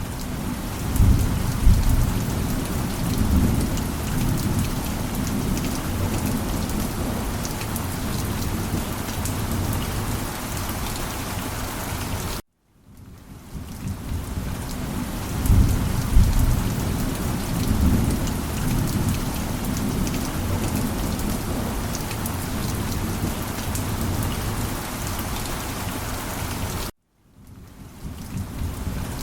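Steady heavy rain with low rolls of thunder, one swelling about a second in and another about halfway through. The sound cuts out to silence twice and fades back in.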